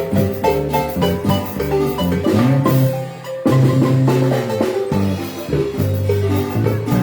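Marimba band playing an upbeat dance tune: quick mallet notes on the marimba over a steady, repeating bass line, with a brief break about three seconds in before the band comes back in.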